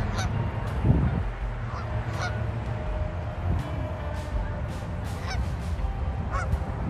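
Geese honking: a scattered series of short calls, the loudest about a second in, over a steady low rumble.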